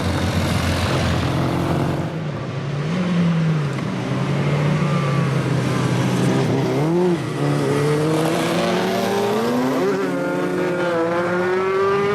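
Old motorcycle engine running, blipped up twice, then pulling away with its pitch rising steadily under acceleration.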